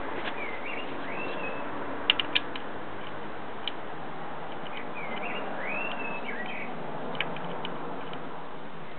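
A songbird singing in short chirping phrases, twice, over a steady background hiss, with a few sharp clicks of metal or tools about two seconds in and scattered later.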